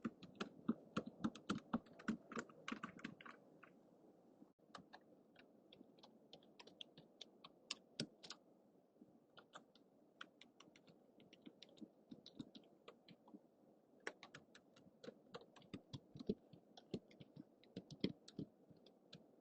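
Typing on a computer keyboard: irregular, faint key clicks, a quick run in the first few seconds, then slower, sparser keystrokes that pick up again near the end.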